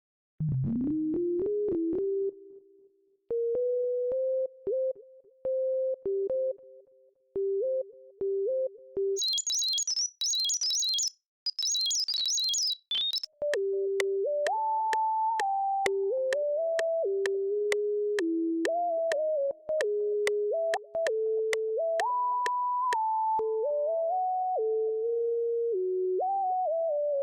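Synthesizer keys playing sustained chords and a melody, opening with a note that slides up in pitch. A bright, high melodic line plays for a few seconds in the middle, then fuller layered chords with a moving top line take over.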